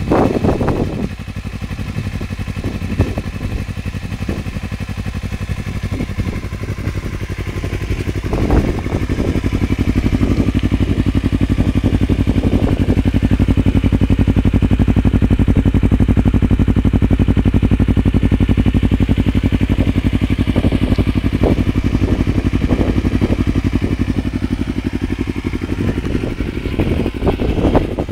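Kawasaki Ninja 250R's parallel-twin engine running through an Arrow exhaust with the dB killer baffle removed. It idles, with several short throttle blips spread through and a louder, steadier stretch in the middle.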